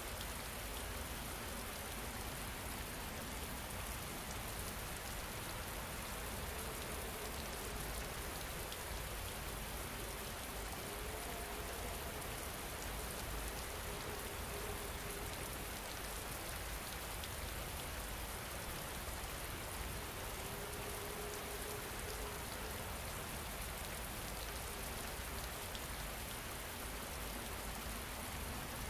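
Steady rain falling, an even continuous patter without pauses.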